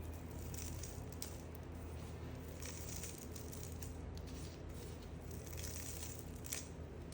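Knife cutting into a bar of soap: three crisp scraping strokes a couple of seconds apart, and a sharp click near the end, over a steady low hum.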